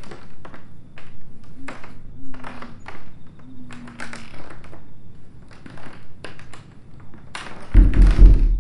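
Footsteps climbing an old staircase, each step a sharp knock, with a few short low creaks. In the last second comes a loud, heavy low thud, the loudest sound here.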